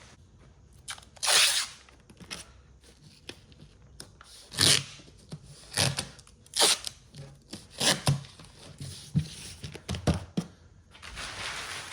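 Masking tape being torn and pressed onto a car panel: a series of short tearing and rubbing sounds, with a steadier rustle starting near the end.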